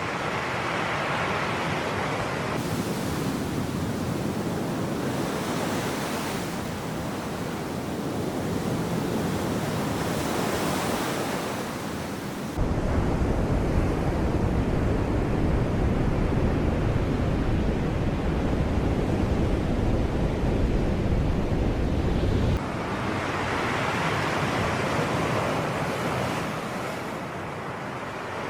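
Sea waves breaking and washing ashore in slow swells that build and ease. A deep low rumble comes in suddenly about halfway through and cuts off about ten seconds later.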